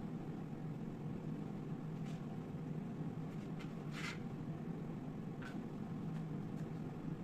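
A steady low hum with a few soft, short clicks scattered through it, the clearest about four seconds in.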